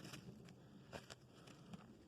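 Faint footsteps crunching on forest leaf litter and twigs, a few soft crackles about half a second apart.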